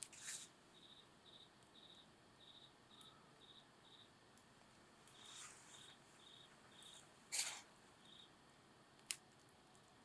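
Faint campfire crackling with a few sharp pops, the loudest about seven seconds in, over a cricket chirping steadily about twice a second.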